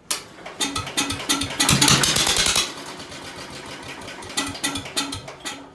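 An old Ford's carbureted engine catches and runs roughly with uneven firing, louder for about a second near the two-second mark, then stumbles along more slowly and dies out near the end. It will not stay running, and the owner puts this down to the carburettor being way too lean and badly out of tune.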